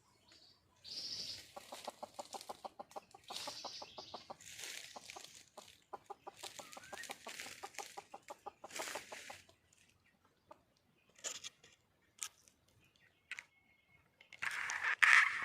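Red junglefowl hen clucking in rapid, evenly spaced trains of notes, mixed with harsher high calls: a hen calling for a mate. Near the end there is a short, louder harsh burst.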